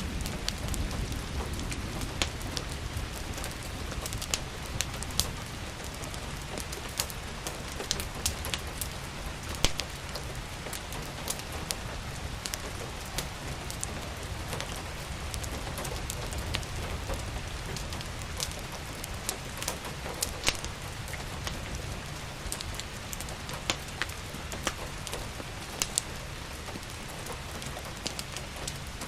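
Steady rain with irregular, sharp crackles and pops from a wood fire on top.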